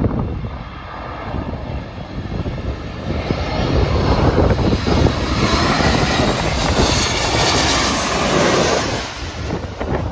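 Airliner flying past, its engine noise swelling over a few seconds, peaking with a high hiss, then fading near the end.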